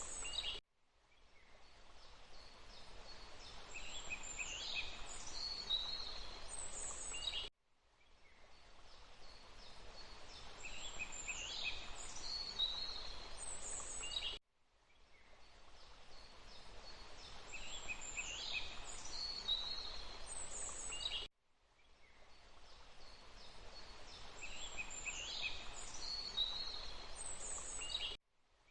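Forest ambience of a few bird calls over a steady rushing hiss, looped: the same short stretch repeats about every seven seconds, each time cutting out to silence and fading back in.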